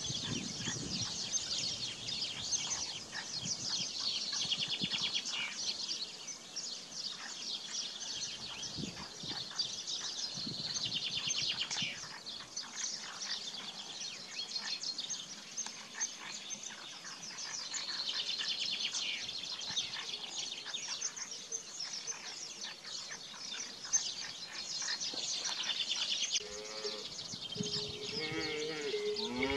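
A dense chorus of small birds chirping and singing continuously. Near the end, cattle begin to low.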